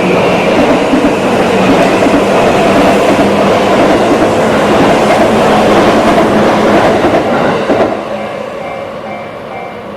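A train running past a level crossing, its wheels clattering over the rail joints, until it falls away about eight seconds in. The crossing's warning bell keeps ringing in a steady repeated pattern, heard plainly once the train has passed.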